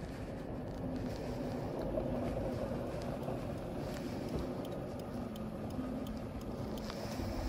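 A car engine idling steadily, a low rumble with a faint hum, with a few light ticks over it.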